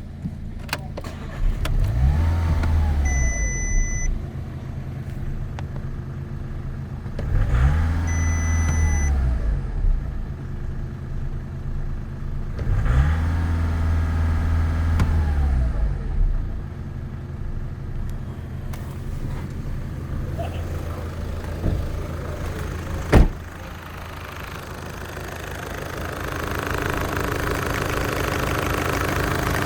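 Audi 1.6 TDI CAYC four-cylinder diesel engine idling and revved three times, each rev rising and falling back to idle. A single sharp knock comes about two-thirds of the way through, and a hiss builds near the end.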